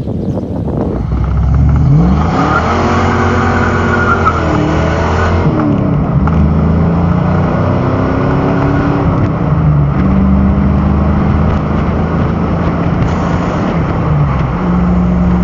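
Open 5.0-litre V8 convertible accelerating: the engine note climbs, drops about four and a half seconds in at a gear change, then runs on steadily under way.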